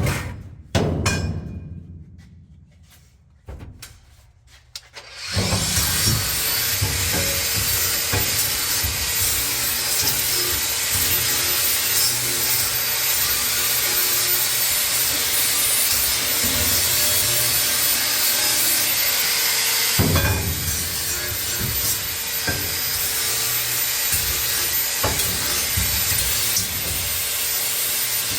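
A power tool working metal, running steadily with a continuous rasping noise and a thin high whine; it starts about five seconds in, after a few seconds of sound dying away.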